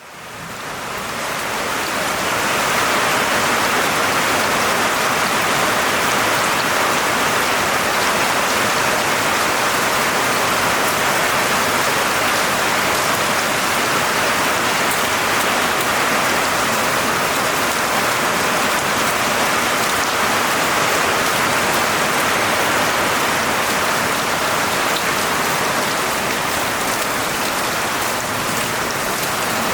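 Steady rain falling, a dense even hiss of drops that fades in over the first couple of seconds.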